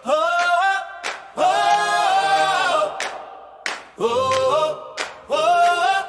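Unaccompanied layered voices singing sustained phrases in harmony, with a few short, sharp hits between the phrases.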